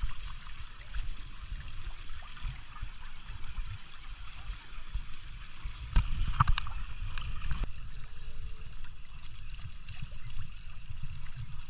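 Sea water splashing and gurgling around a pedal water bike as it moves, getting louder about six seconds in, with a few sharp clicks.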